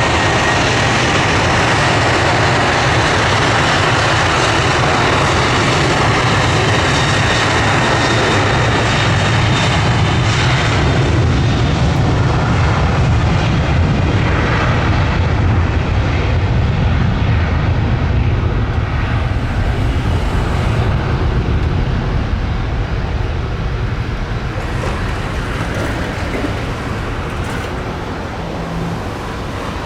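Jet airliner passing close, its engines a loud roar with a deep rumble and a high whine that slides down in pitch over the first few seconds. After about twenty seconds the sound grows duller and fades as the aircraft moves away.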